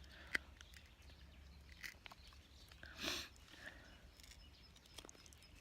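Faint scattered clicks and one brief scrape or rustle about three seconds in, in a quiet near-silent background.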